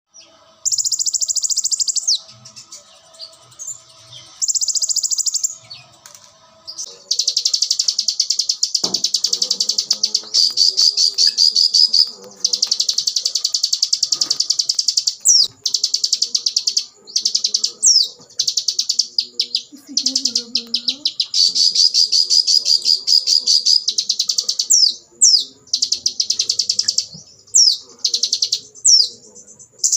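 Konin songbird singing: long, rapid, high-pitched trilled phrases of several seconds each, separated by short pauses. From about halfway through, short sharp downward-sweeping notes come between the trills.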